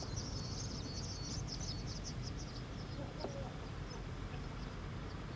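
Faint high-pitched bird chirping in a quick series that thins out about three seconds in, over a low steady background rumble.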